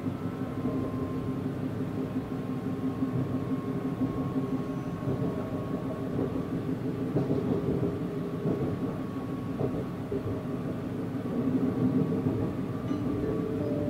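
Running noise of a passenger train at speed: a steady rumble of wheels on rail with a faint steady hum, and two brief knocks in the middle.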